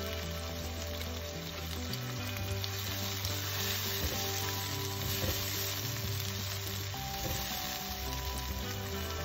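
Chopped tomato and onion frying in hot oil in a non-stick pan, sizzling steadily while a spatula stirs them.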